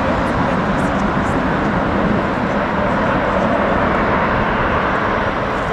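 Jet airliner engines running as the plane passes, a steady loud rumble and roar, with wind noise on the microphone.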